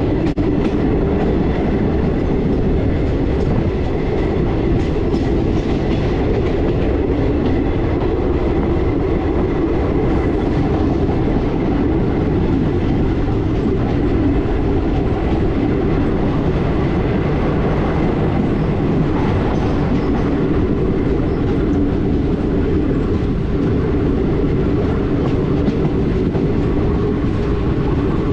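Passenger train running along the track, heard from on board: a steady rumble of wheels on rail with faint clicks over the rail joints.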